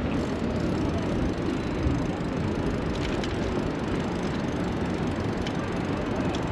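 Steady street and traffic noise heard from a moving bicycle, with a rumble in the lows and a few faint clicks.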